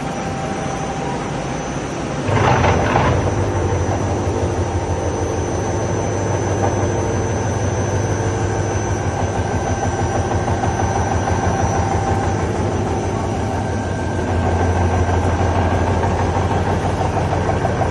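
Nomura BN135QF CNC floor boring machine running with a steady low machine hum. About two seconds in there is a brief noisy burst as the hum steps up and grows louder, and it rises again near the end.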